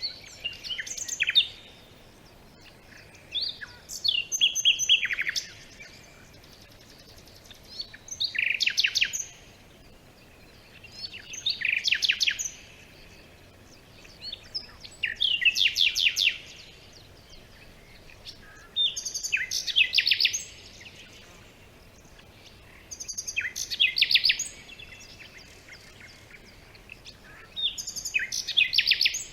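A songbird singing the same kind of phrase over and over: eight short bursts of quick high chirps and trills, each about one and a half to two seconds long, coming every four seconds or so, over a faint steady background hiss.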